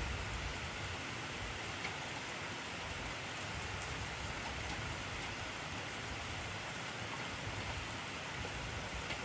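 Heavy rain falling steadily: an even hiss with a few faint drop ticks.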